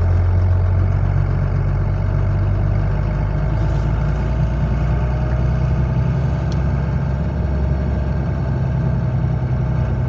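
Truck engine running steadily at low speed, a constant low drone, with a faint thin whine that climbs slightly in pitch through the second half.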